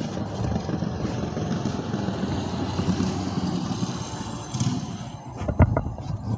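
Small engine of a mini dirt bike running in the street, a steady rough drone. A few sharp knocks come near the end.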